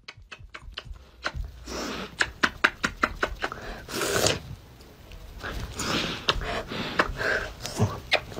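An animal's sounds: a quick, irregular run of sharp clicks with short breathy bursts of noise between them.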